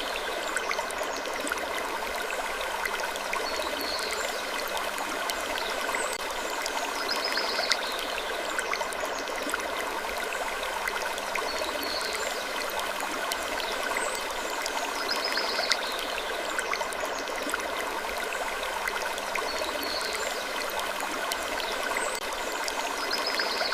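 Steady ambience of even rushing noise like running water, with small high sounds recurring every couple of seconds in a repeating pattern.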